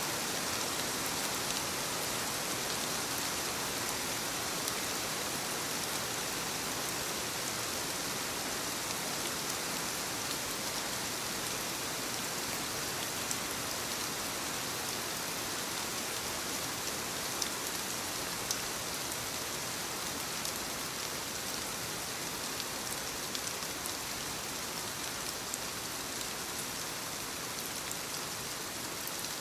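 Steady light rain falling on leaves: an even hiss with scattered individual drop taps.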